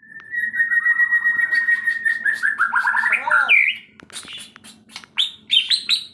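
A white-rumped shama (murai batu) singing a varied song: a long held whistle with quick notes beneath it, then fast falling slurs, and from about five seconds in a quick run of repeated falling chirps.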